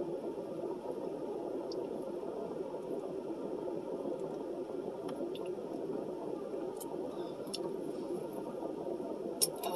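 Eating sounds: chewing and a swallow from a plastic drink bottle over a steady hum inside a car. A few small plastic ticks come from the bottle and the foam takeout container.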